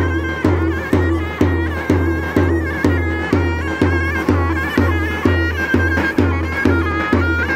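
Davul and zurna playing Turkish folk music. The davul's deep drum beat falls steadily about twice a second under the zurna's reed melody, which is full of quick ornaments.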